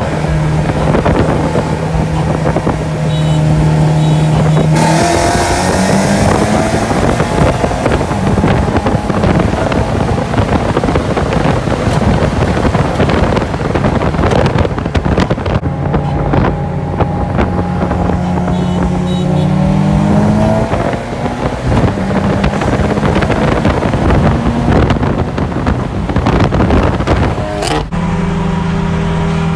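Car engines at wide-open throttle heard from inside the cabin, pitch climbing in steps as the gears shift, over heavy wind and road noise. The sound cuts abruptly between passes a few times.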